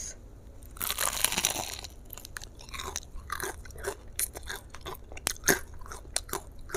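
Biting and chewing crispy fried chicken: a long crackling crunch about a second in, then crunchy chewing with many short crackles.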